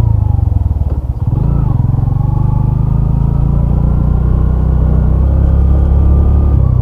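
Suzuki Hayate EP's small single-cylinder four-stroke engine running steadily while the motorcycle is ridden, with a brief dip in the engine note about a second in before it pulls on.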